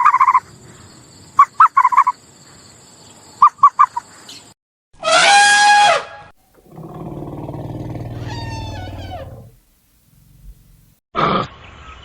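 A run of animal calls cut one after another: three groups of short honks, like geese, in the first four seconds. About five seconds in comes a loud call about a second long that falls in pitch, followed by a long low growling rumble lasting nearly three seconds.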